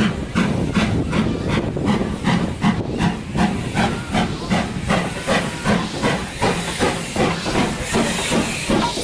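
Steam locomotive chuffing steadily, about two to three exhaust beats a second, each beat a puff of hiss; near the end a broader steam hiss swells over the beats.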